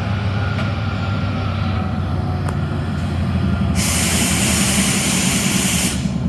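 Train running with a steady low rumble. A loud hiss starts abruptly just before the middle, lasts about two seconds, then cuts off suddenly.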